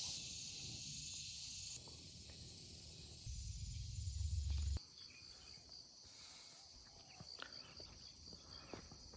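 Steady chorus of forest insects, a high hiss with a rapid pulsing chirp in it. About a third of the way in, a low rumble joins it, then stops suddenly.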